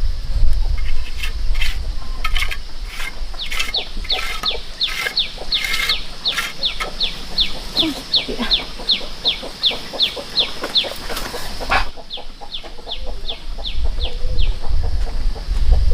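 Chicks peeping: a steady run of short, high peeps, each falling in pitch, nearly three a second, breaking off briefly near the end and then starting again. A low rumble sits under the start and the end.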